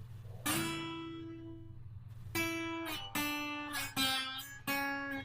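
Guitar played with a slide: a slow phrase of about six plucked notes, each ringing and fading before the next.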